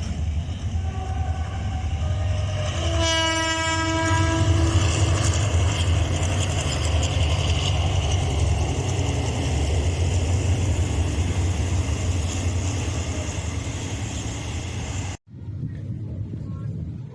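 Train horn sounding a blast of about two seconds, over the loud, steady low rumble of a passing train, with wind noise. The rumble cuts off abruptly near the end.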